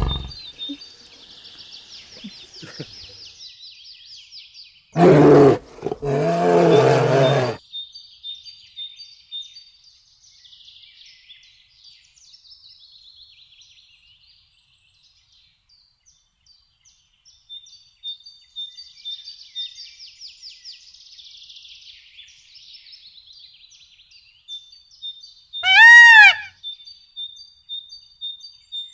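Farm animal calls: a deep two-part call about five seconds in, and a short high call that rises and falls near the end, over faint steady bird chirping.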